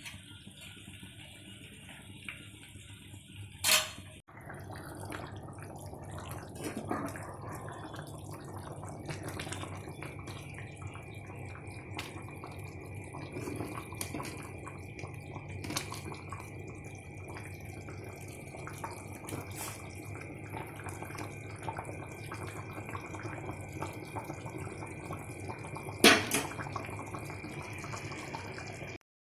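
Water sloshing and dripping, with many small clicks, a sharp knock about four seconds in and another near the end.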